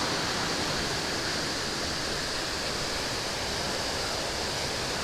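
Athabasca Falls, a large waterfall on the Athabasca River, thundering: a steady, loud roar of heavy falling water.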